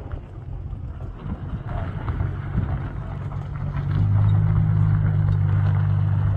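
An engine running with a steady low hum that grows louder about four seconds in.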